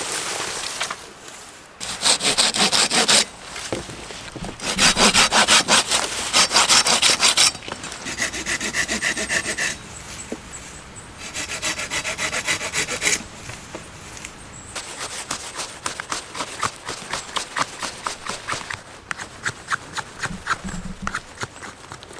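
Hand saw cutting wood, in several runs of quick back-and-forth strokes separated by short pauses.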